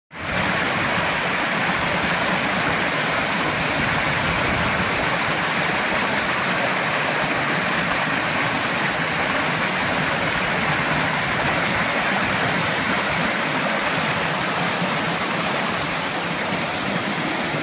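Steady rushing of running water, an even unbroken splash like a small waterfall.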